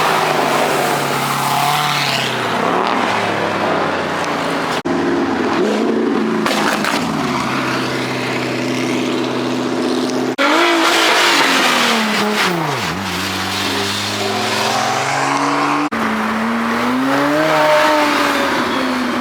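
Car engines revving and driving past, in four short clips joined by abrupt cuts. The engine pitch rises and falls with each rev, with a deep dip and climb about thirteen seconds in.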